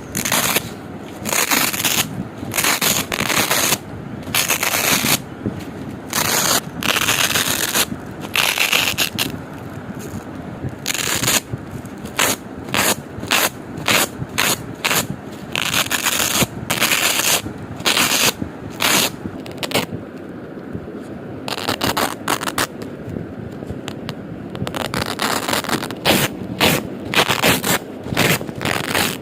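Hook-and-loop (Velcro) strips being pulled apart over and over, each pull a loud crackling rip, some short and some drawn out, with a quieter stretch about two-thirds of the way through.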